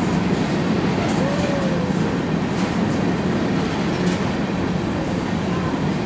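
Covered hopper cars of a freight sand train rolling past with a steady rumble. Faint wheel clicks come about every second and a half.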